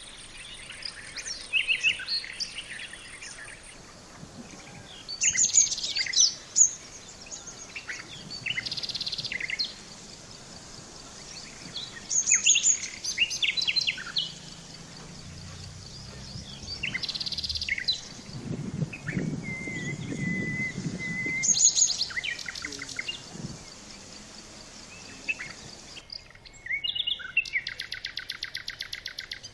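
Wild birds calling and singing: repeated short chirps and quick whistled phrases, a held whistle about two-thirds of the way through, and a fast rattling trill near the end.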